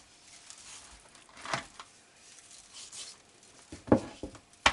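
Hands salting and handling fresh feta cheese: faint rustling with a few soft knocks, then a cluster of knocks and a sharp click near the end.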